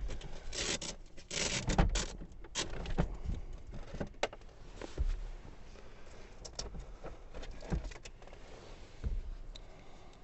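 Irregular clicks, knocks and rustling from things being handled and moved, over a low rumble.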